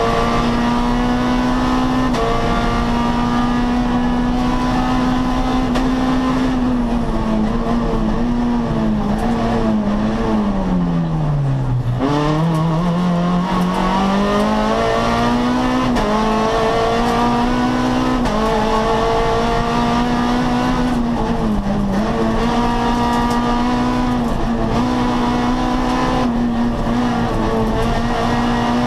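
Peugeot 206 rally car's engine heard from inside the cockpit, held at high revs through the gears with short dips at each shift. About ten seconds in, the revs fall steadily for a few seconds and then climb again as the car accelerates.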